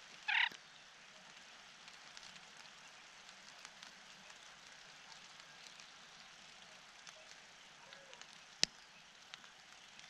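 Scimitar babbler at its nest giving one brief harsh call about half a second in, over a steady faint hiss. A single sharp click near the end.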